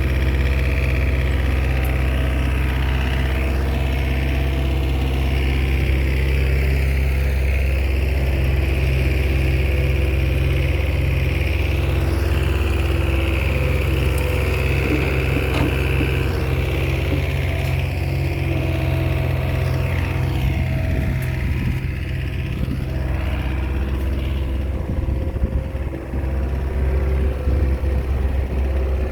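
Small Komatsu bulldozer's diesel engine running steadily, with a high whine over it that rises and falls in pitch and comes and goes. Near the end the low sound turns uneven with knocks.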